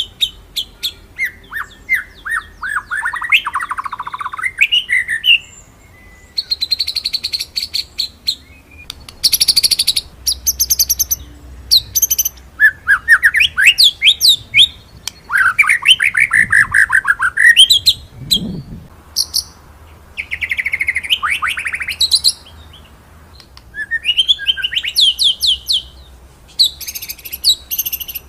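White-rumped shama (murai batu) singing: a string of varied phrases with fast rolling trills and sharp, loud sweeping notes, in bursts separated by short pauses.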